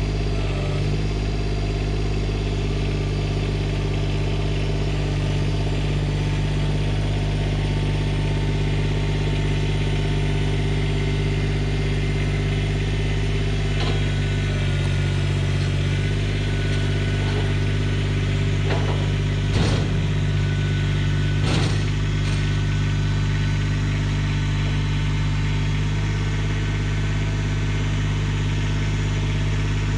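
An engine idling steadily at an even pitch, with two sharp knocks about two seconds apart past the middle.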